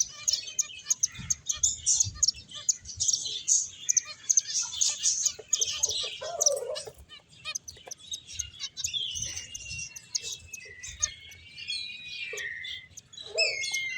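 A group of finches chirping busily, many short high chirps overlapping. About nine seconds in, the chirps thin out and longer whistled notes gliding downward stand out.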